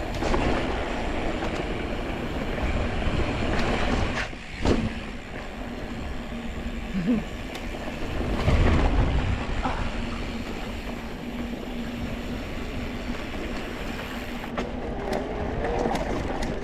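Mountain bike rolling over rough trail: a continuous rumble of tyres on rock and dirt, with rattles and knocks from the bike and wind noise on the microphone. It gets louder over a rough patch about halfway through.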